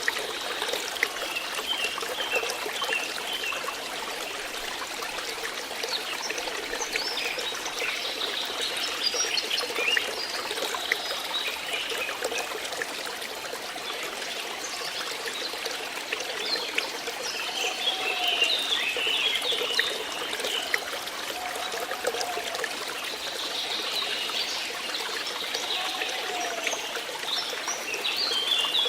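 Flowing water, a steady stream trickling over stones.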